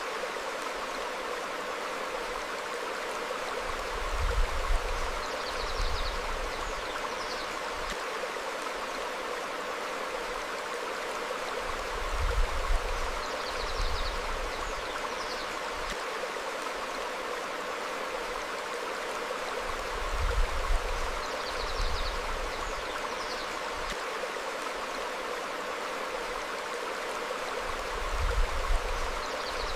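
A stream flowing over rocks, a steady rushing of water, with a few faint short bird chirps. Brief low rumbles come in pairs about every eight seconds and are the loudest moments.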